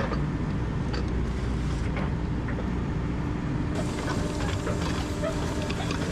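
Komatsu 160 excavator's diesel engine running steadily, with scattered metallic clicks and clanks as the steel track is worked back onto the sprocket and rollers.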